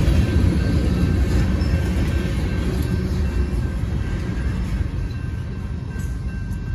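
Last covered hopper cars of a freight train rolling over the grade crossing, a steady rumble of wheels on rail that dies down as the end of the train clears near the end. Under it, the crossing's warning bell rings with steady tones.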